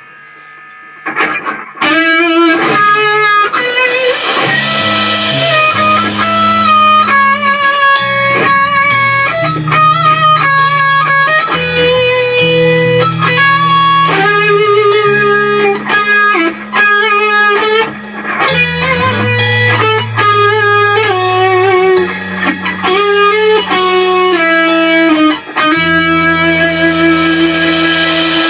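Instrumental band music: a melodic electric guitar line over sustained bass notes, fading in and coming in fully about two seconds in.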